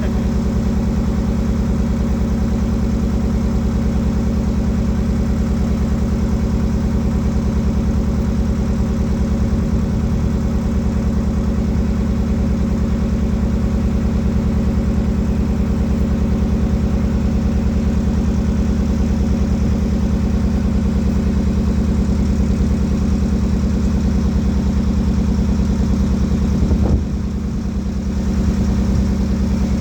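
Boat engine running steadily at a constant speed, with a brief dip in level about 27 seconds in.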